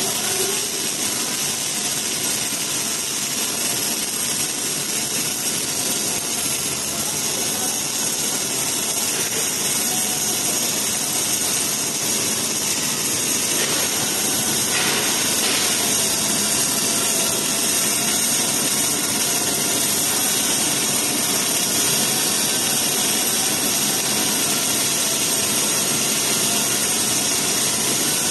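Welding arc hissing steadily as a collaborative welding robot runs a circumferential seam around a small pipe, over a faint steady machine hum.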